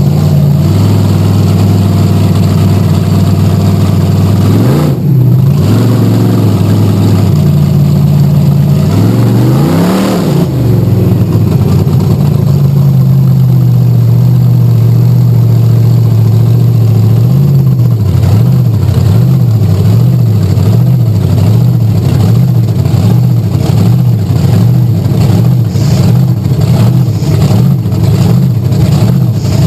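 Bigfoot 10 monster truck engine running. It revs up and back down twice in the first ten seconds, settles to a steady idle, and from about two-thirds of the way through the throttle is blipped in an even rhythm a little more than once a second.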